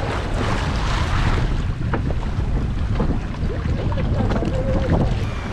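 Boat under way at sea: a steady low rumble, with wind buffeting the microphone and water noise.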